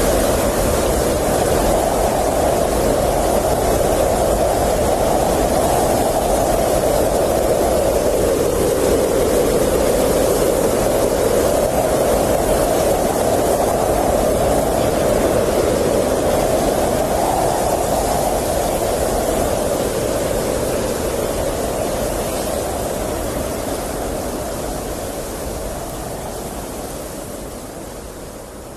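Blizzard wind blowing steadily in a dense rush of noise, with a hollow howl that slowly rises and falls in pitch. It fades out gradually toward the end.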